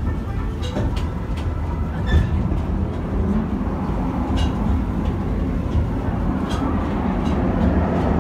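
Open passenger car of a train rolling along the track: a steady low rumble with scattered sharp clicks and clanks from the wheels and running gear.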